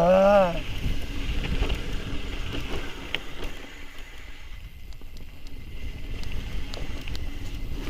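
A rider's whooping shout, then a mountain bike descending a rough trail: wind rushing over the microphone, with tyre rumble and scattered clicks and rattles of the bike over the ground.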